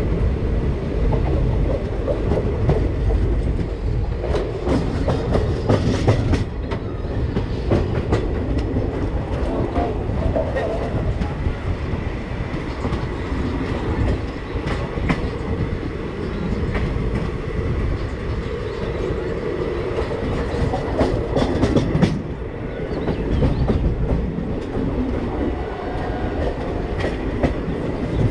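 Running sound of an express passenger train heard from an open coach window: a steady wheel-on-rail rumble with clickety-clack from the wheels striking rail joints, the clicks coming in clusters every few seconds.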